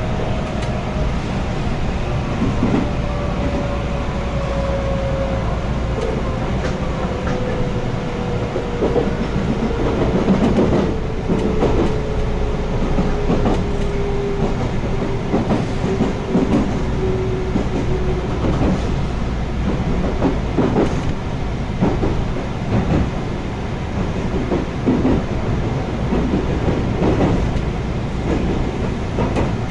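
Interior running noise of a JR West 221 series electric multiple unit: a steady rumble with irregular clicks and knocks from the wheels over rail joints. Over the first half, a thin whine from the drive gear slowly falls in pitch as the train slows.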